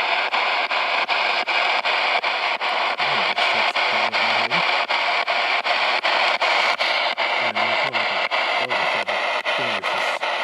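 Spirit box, a radio scanner sweeping rapidly through stations: steady static hiss chopped by short gaps about three or four times a second. Brief broken snatches of broadcast voice or music come through a few seconds in and again near the end.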